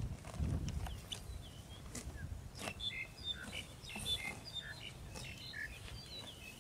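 Small birds chirping in many quick, short notes, busiest from about three seconds in. A few sharp ticks and a low rumble come in the first couple of seconds.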